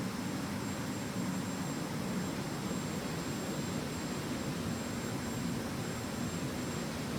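Steady, unbroken rush of a jet airliner in flight, heaviest in the low end, with a thin high whine held above it.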